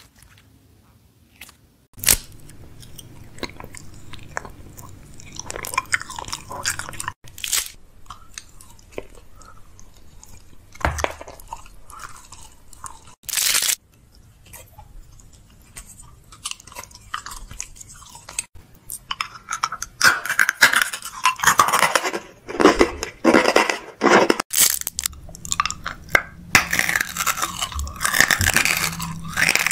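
Close-miked mouth sounds of someone eating: wet chewing, tongue and lip clicks, and crunchy bites. These grow into dense, loud crunching over the last third.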